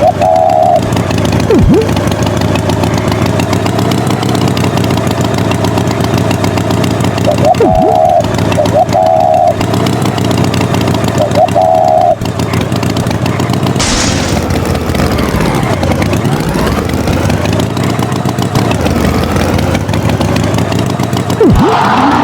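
An engine running steadily throughout, with a few short higher-pitched toots over it and a sweeping glide in pitch about two thirds of the way through.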